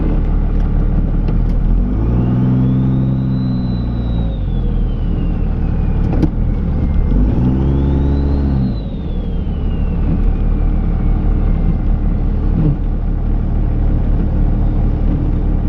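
Dodge Ram's Cummins turbo-diesel running under load and revving up twice, each time with a high whistle that rises and then slowly falls away.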